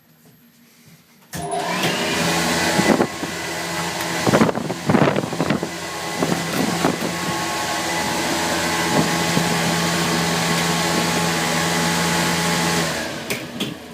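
Air shower cabin starting its cycle: the blower cuts in suddenly about a second in, and the nozzles blast a steady rush of air over a fan hum. It runs for about eleven seconds, then winds down and stops near the end.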